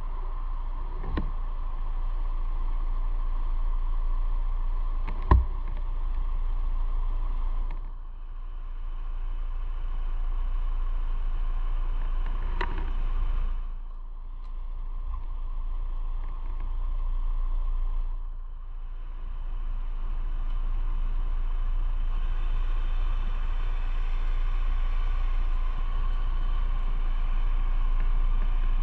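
Motorcycle riding on the road: steady engine and wind noise with a deep rumble, dipping briefly three times, with a single sharp knock about five seconds in.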